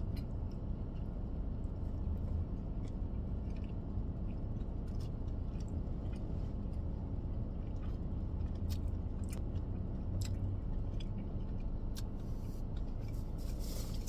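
A person chewing a mouthful of barbecued rib meat, with scattered wet mouth clicks and smacks over a steady low hum.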